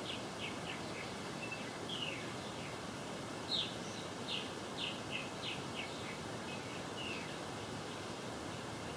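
Small birds chirping: short, quick notes that slide downward, coming in scattered runs, over a steady background hiss.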